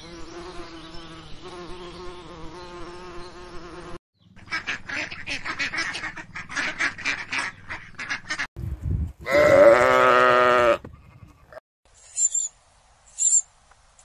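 A string of animal sounds: for about four seconds the steady hum of honeybees on the comb, then ducks quacking in quick rough calls, then one long, loud, wavering bleat-like call. Near the end come two short, high squeaks from parrot chicks.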